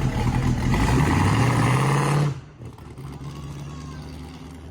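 Custom trike's Chevrolet 350 small-block V8 engine running loud and steady, then dropping sharply to a quieter, steady running sound a little over two seconds in.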